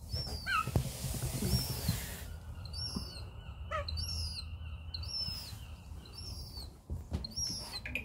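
Begging calls of a juvenile gull: a string of short, high-pitched whistles, each falling in pitch, repeated roughly every half second to second.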